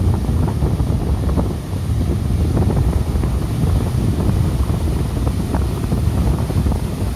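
Strong wind from an approaching typhoon buffeting the microphone in a steady, low rumble, over the noise of high surf.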